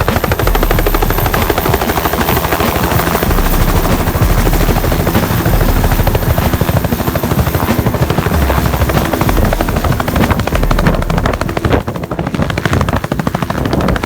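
Helicopter in flight, heard from on board: steady loud rotor chop and engine noise.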